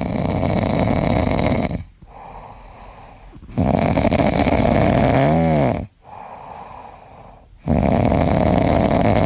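A sleeping pet snoring loudly: three long rasping snores about four seconds apart, the middle one with a brief rising-and-falling squeaky note in it.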